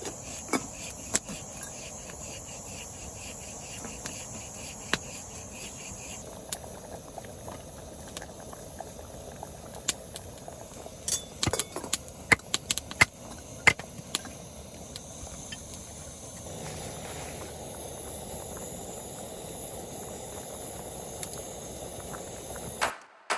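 Camp cooking sounds: a steady hiss of a pot simmering, with a run of sharp clicks and clinks around the middle.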